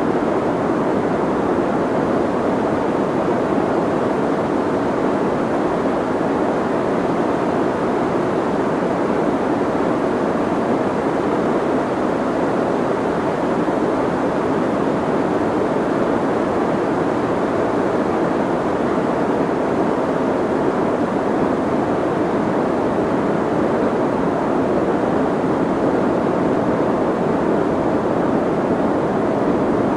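Soft white noise: a steady, even hiss, fullest in the low and middle range with little high treble, unchanging throughout.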